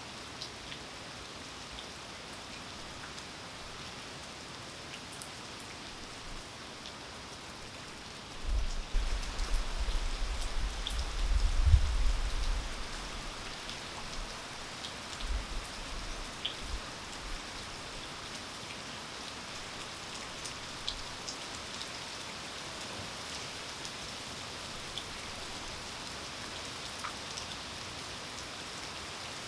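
Steady rainfall, with scattered drops ticking sharply on nearby surfaces. About eight seconds in, a loud low rumble swells for roughly four seconds and then dies away.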